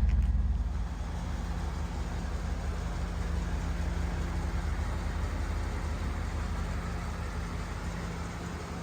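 1986 Pontiac Firebird Trans Am's V8 engine running steadily with a low hum. It drops in level a little under a second in, then holds steady.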